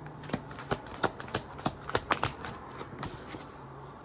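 Tarot cards being shuffled: a quick, irregular run of sharp card snaps and clicks that dies away near the end.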